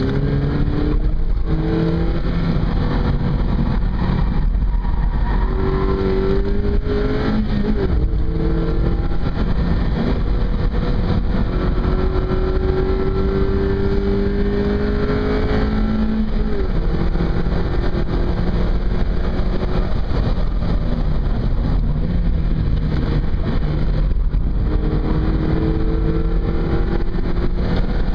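Mazda MX-5's four-cylinder engine heard from inside the cabin on track at full throttle, rising in pitch through each long pull and dropping away at the gear changes and braking points, over heavy road and wind noise.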